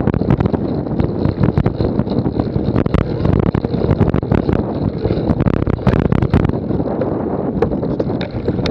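Wind rushing over the microphone of a moving cyclocross bike camera, with frequent sharp clicks and rattles from the bicycle jolting over rough ground.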